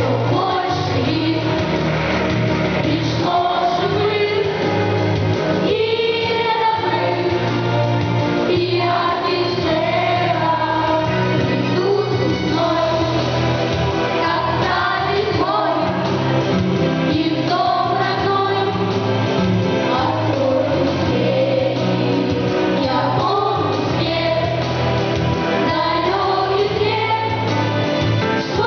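A choir singing a song over instrumental accompaniment.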